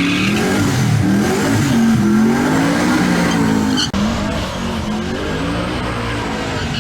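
Drag-racing car engine revving hard, its pitch swinging up and down several times, with a brief break about four seconds in.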